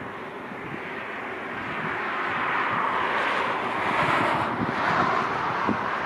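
Jet airliner's engines passing: a rushing noise that builds to its loudest about four to five seconds in and then begins to fade, with wind buffeting the microphone.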